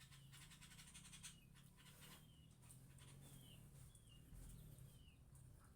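A bird chirping faintly: short falling chirps, about one or two a second, starting about a second in, over a low steady hum.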